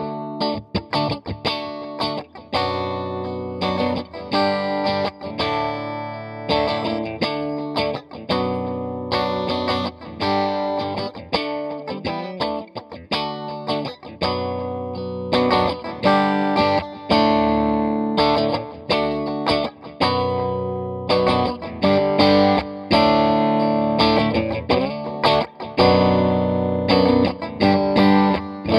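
Stratocaster electric guitar played through an Electra MPC-8 Tube Sound module, a run of notes and chords. The tone is a mild, edge-of-breakup overdrive that doesn't get real dirty.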